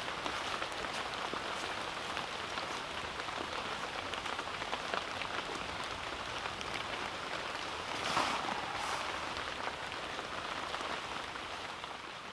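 Steady rain falling, with single drops ticking sharply through the hiss. A brief louder rustle comes about eight seconds in.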